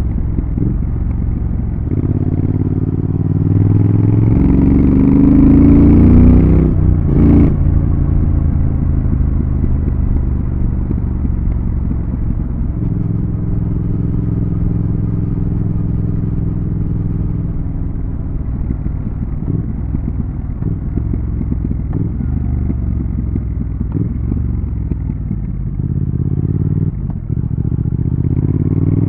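Triumph Thruxton RS's 1200 cc parallel-twin engine under way. The revs climb through a gear early on and break at an upshift about seven seconds in, then it cruises steadily at an even engine speed. After a brief drop near the end the revs rise again.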